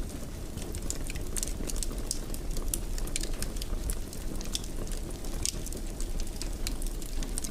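Fireplace fire crackling: many sharp, irregular crackles and pops over a steady low background noise.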